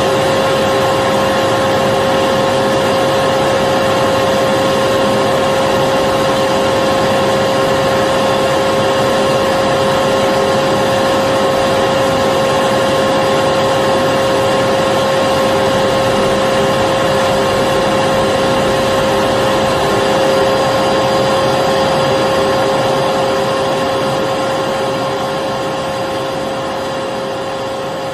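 Electric vacuum cleaner running continuously: a steady whine with a strong constant tone over a rush of air, unchanging in pitch. Near the end it starts to fade down gradually.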